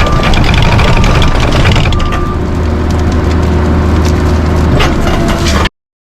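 A machine's engine runs steadily under a dense series of sharp wood cracks and snaps. The sound cuts off suddenly near the end.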